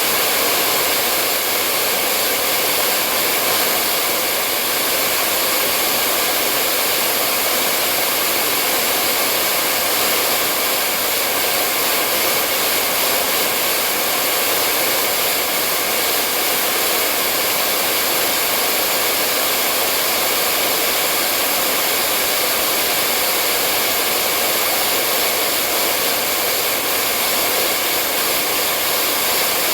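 Hair dryer running steadily, a constant even whooshing of the fan and airflow, used as continuous white noise to soothe a baby to sleep.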